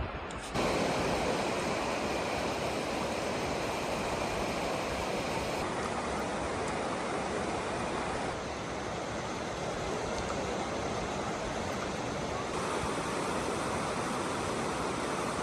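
Heavy rain pouring as a steady, dense rushing hiss. It starts suddenly about half a second in and shifts slightly in tone a few times.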